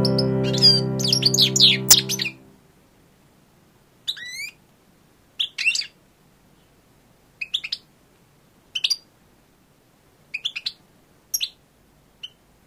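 Birds chirping in short separate calls, a few every couple of seconds. Keyboard music plays under the first calls and ends about two seconds in.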